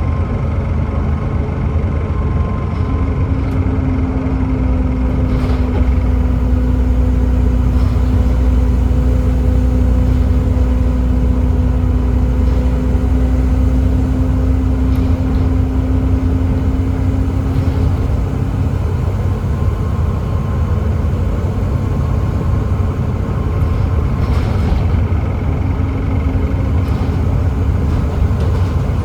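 Volvo B7TL double-decker bus with a Volvo D7C 7.3-litre diesel and ZF Ecomat six-speed automatic gearbox running along the road, a steady low rumble throughout. A steady whining tone holds from a few seconds in until past the middle, then fades out.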